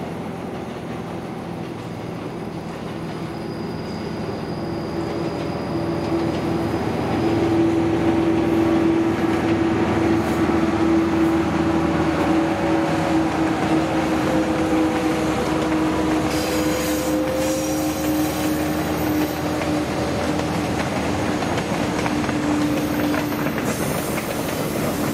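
CSR Ziyang-built diesel locomotive running as it hauls a train of cement tank wagons past, with a steady engine hum over the rumble of wagon wheels on the rails. It grows louder over the first several seconds as the locomotive draws near, then stays loud while the wagons roll by.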